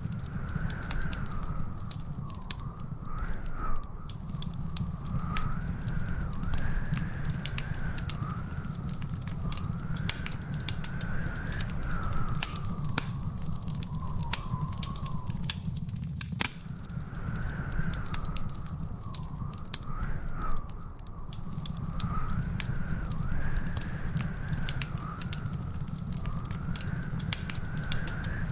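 Fireplace fire crackling, with a steady low rumble and frequent sharp pops and snaps. A faint wavering whistle-like tone drifts up and down throughout.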